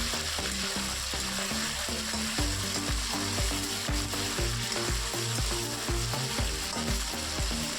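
Food sizzling as it fries in a pan and is stirred, with background music carrying a steady beat underneath.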